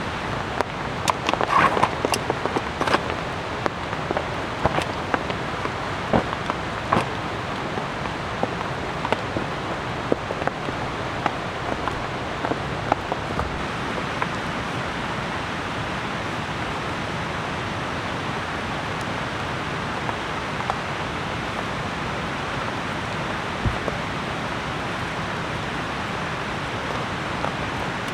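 Steady rain falling, with irregular sharp taps that come thickly in the first half and only now and then after that.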